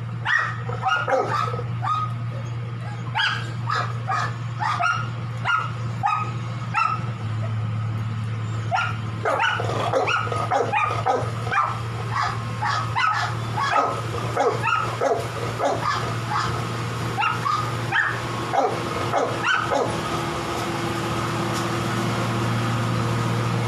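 Dog barking repeatedly in short sharp barks, often several in quick succession, stopping about twenty seconds in. A steady low hum runs underneath.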